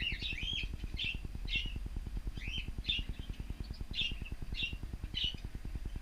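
Cockatiels chirping: short calls repeated about twice a second, over a low, fast, even pulsing rumble.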